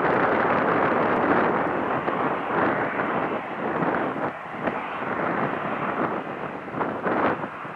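Wind buffeting the microphone, a loud rushing noise that comes and goes in irregular gusts.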